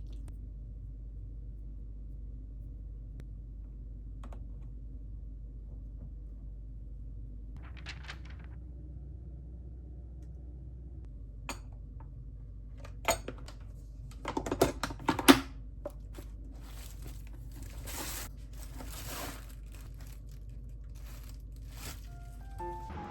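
Kitchen handling sounds over a steady low hum: scattered clicks and knocks, with a burst of crinkling and tearing about halfway through and more rustling near the end.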